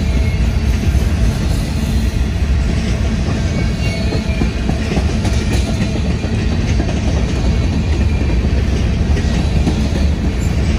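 Freight cars (covered hoppers, tank cars and a boxcar) of a manifest train rolling past close by: a steady, loud rumble of steel wheels on the rails.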